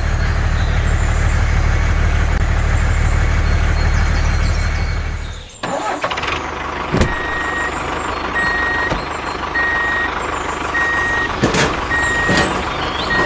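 A vehicle engine runs steadily with a low hum, then cuts off about five seconds in. A little later a reversing alarm starts beeping, one high beep a little over once a second.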